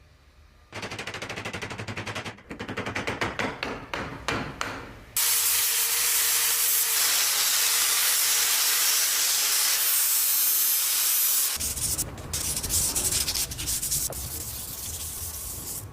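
Abrasive tool working the rusty steel of an old pickaxe head. It starts with rapid even strokes, and about five seconds in it turns into a loud steady grinding hiss that lasts about six seconds before becoming rougher and more broken.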